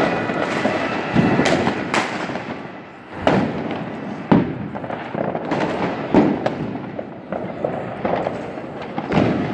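Fireworks and firecrackers going off: irregular sharp bangs, roughly one a second, over a continuous din of more distant explosions.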